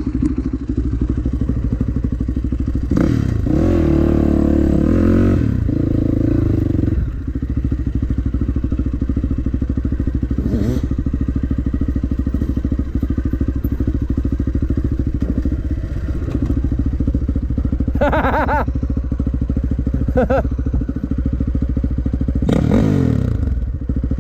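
Dirt bike engine running while riding. It revs up hard about three seconds in and holds for several seconds, then gives shorter bursts of revs near the middle and toward the end.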